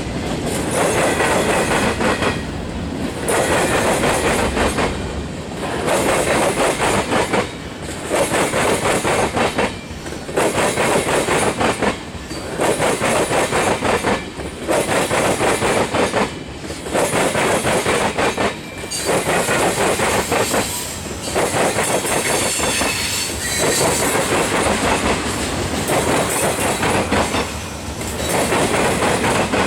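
Freight cars of a manifest train rolling past at close range, with the wheels clacking over the rail. The noise swells and dips about every two seconds as each car goes by, and there is some high wheel squeal in the second half.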